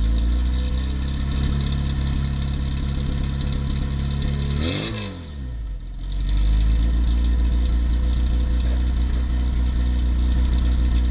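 Morris Mini Cooper S Sprint's four-cylinder engine idling through its exhaust, with one brief blip of the throttle about five seconds in before settling back to a steady idle.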